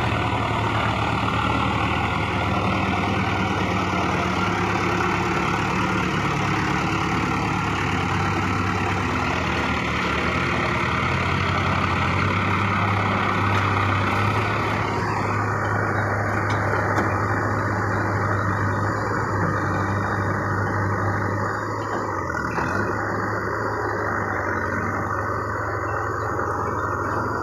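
Tractor diesel engine running steadily with a deep, even engine note, its higher hiss falling away about halfway through.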